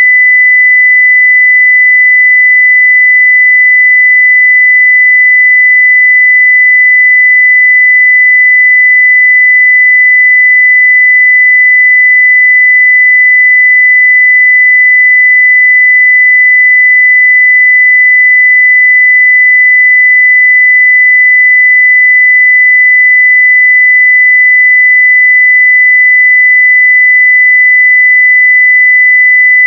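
Continuous 2 kHz sine-wave test tone at full level (0 dB), a single pure steady pitch that does not change.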